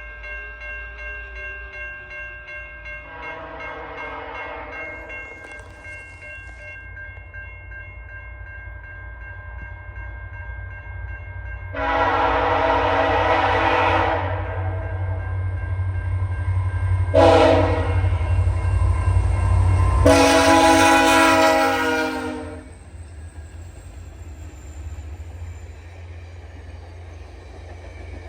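VIA Rail F40PH diesel locomotive's multi-note air horn sounding four blasts, long, long, short, long: the grade-crossing signal. Under the horn, the low rumble of the locomotives and train grows louder, then drops after the last blast.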